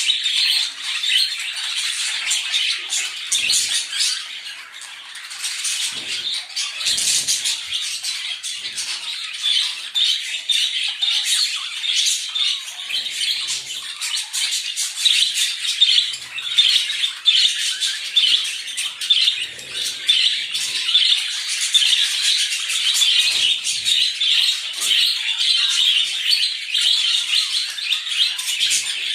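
Birds chirping and squawking without a break in a dense, high-pitched chatter, with a few soft low thumps here and there.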